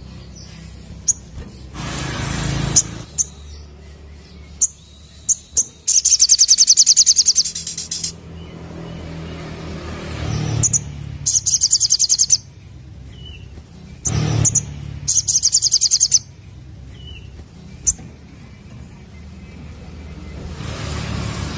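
Little spiderhunter (sogok ontong) calling: scattered single sharp, high chip notes and three fast, high-pitched trills of about one to two seconds each. Now and then a broad rushing noise rises and fades.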